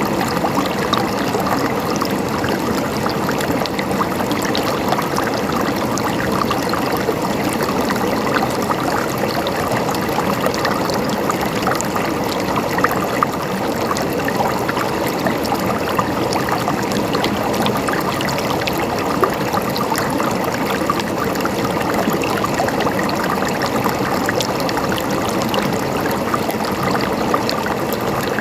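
River water running steadily over rocks, a continuous rushing with many small splashes and trickles.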